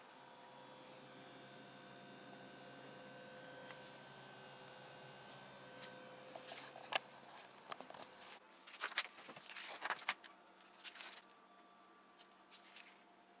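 LG B607SEM refrigerator running: a faint steady hum with thin, high, whining tones above it, a noise level the owner finds not worth worrying about despite reviews calling it loud. Partway through, a run of clicks and rustles starts, and about eight seconds in the low hum drops away.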